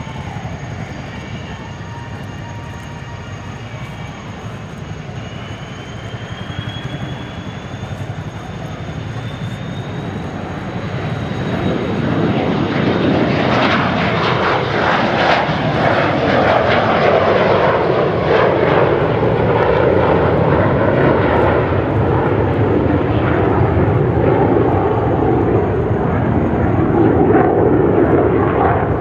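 JASDF Kawasaki EC-1 jet, with two Pratt & Whitney JT8D turbofans, flying past. A high engine whine rises in pitch as it approaches, and the engine noise grows much louder about twelve seconds in and stays loud through the pass.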